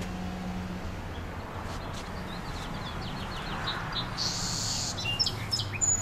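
Small birds chirping and twittering: a quick run of short high chirps about two seconds in, a buzzy trill just after four seconds, and a few loud, sharp chirps near the end.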